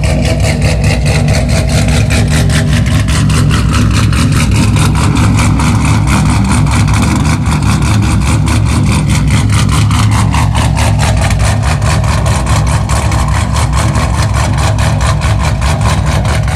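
Pontiac G8 race car's cammed engine idling at the exhaust, with a choppy, evenly pulsing beat that holds steady throughout.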